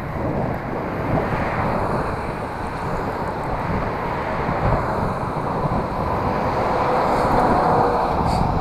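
Wind rushing over a helmet-mounted camera microphone while riding a bicycle, mixed with road traffic noise that swells a little from about five to eight seconds in.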